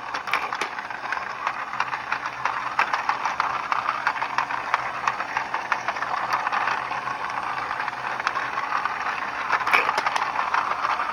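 Bullets rattling and clicking continuously as a motor-driven 3D-printed bullet feeder tumbles and feeds them, with a faint low steady hum underneath.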